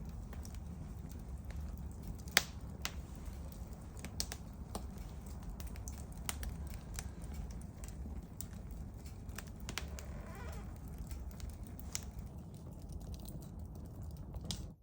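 Small wood campfire crackling, with irregular sharp pops over a low rumble of burning. One loud pop comes a little over two seconds in, and a brief wavering hiss comes about ten seconds in.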